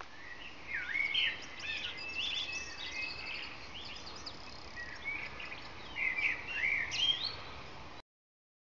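Songbirds chirping and singing: many short whistled phrases that rise and fall, busiest about a second in and again near the end, over a faint steady hiss, then cut off suddenly.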